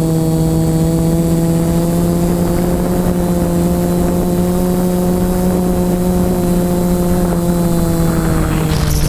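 Electric motor and propellers of an FPV model aircraft running at steady throttle: a loud, even propeller hum with a string of overtones, holding pitch. Just before the end a brief rush of hiss comes in as the pitch dips slightly.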